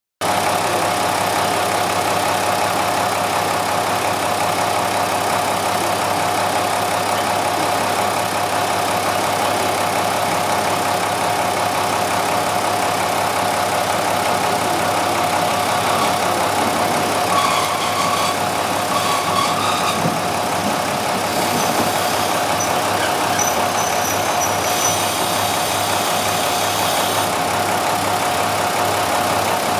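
Diesel railcar engine idling steadily at the platform, with a constant hum.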